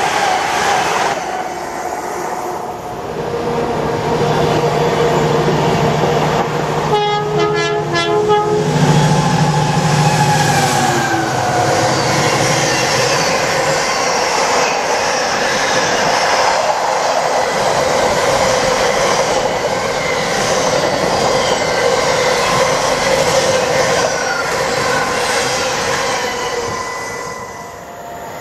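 A Class 70 diesel locomotive runs through at speed hauling a container freight train. Its horn sounds a two-tone blast for about a second and a half, about seven seconds in. The container wagons then rumble and clatter past on the rails, and the noise fades away near the end.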